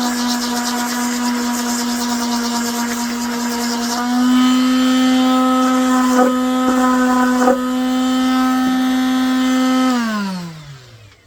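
Small electric power tool motor running at a steady pitch, rising slightly about four seconds in, with a couple of brief clicks. Near the end it is switched off and winds down, falling in pitch as it stops.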